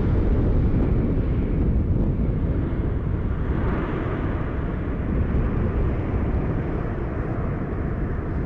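Jet engine noise of a landing Boeing 787-8 airliner: a steady low rumble that swells briefly about four seconds in.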